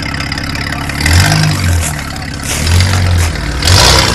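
Off-road 4x4's engine under load on a muddy slope, running at a steady rumble, then revving hard in three surges about a second apart. A short loud rushing noise comes near the end.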